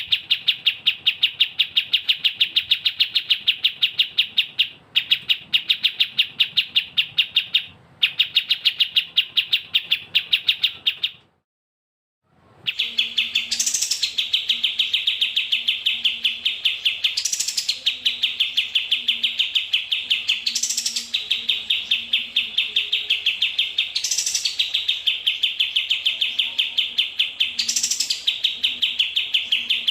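A small songbird giving a fast, even run of high chirps, a masteran recording for tutoring caged songbirds. About eleven seconds in it stops for roughly a second. It then resumes with a rising sweep breaking in every three to four seconds.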